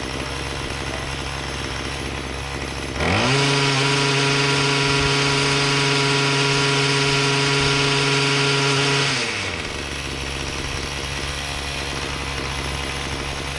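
Troy-Bilt TB225 mini tiller's small engine idling, then throttled up about three seconds in to a steady high speed. It holds there for about six seconds and then drops back to idle.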